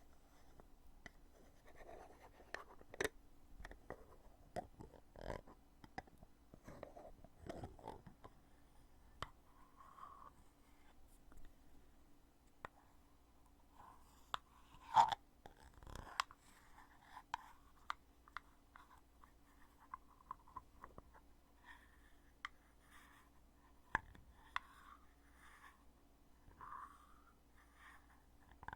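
A foundation container's lid being opened and closed over and over: scattered small clicks and light scraping, with the loudest click about halfway through.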